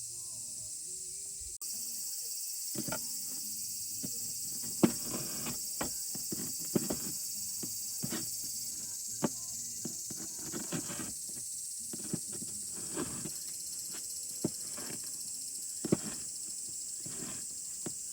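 Wood fire crackling with irregular sharp pops, over a steady high-pitched chirring of insects.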